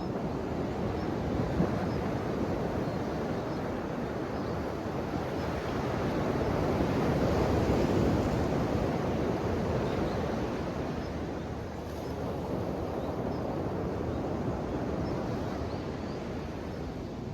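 Ocean waves washing onto the shore, the surf swelling to its loudest about halfway through and then easing back.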